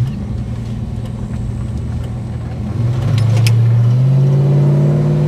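Holden HK car engine running at low revs, then pulling harder about three seconds in, getting louder with its note rising slightly.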